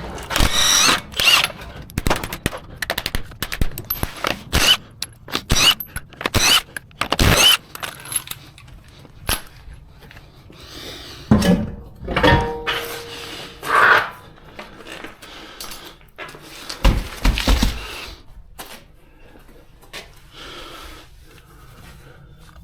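Mechanic's tools and equipment clanking as work on a car's front wheel begins: an irregular string of sharp metallic clicks and knocks, busiest in the first eight seconds. A short steady tone sounds about twelve seconds in, and it grows quieter near the end.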